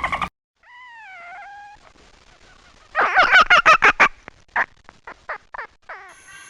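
An animal calls: one drawn-out call with a dip in pitch, then a loud rapid run of short calls about three seconds in that slows and fades over the next two seconds.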